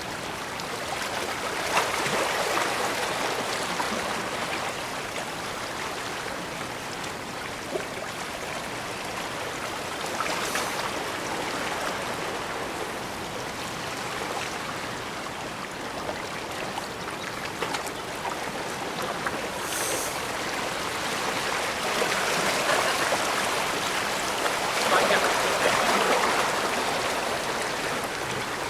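Steady rush of moving water at the bay, swelling a few seconds in and again near the end.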